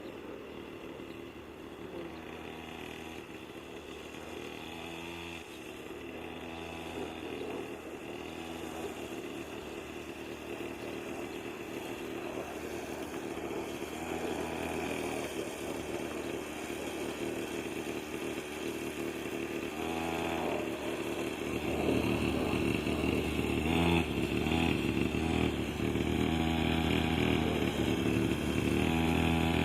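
Small 49cc mini quad bike engine running at low revs, with repeated brief rises in pitch from light, gentle throttle. It gets steadily louder, with a clear step up about two-thirds of the way through.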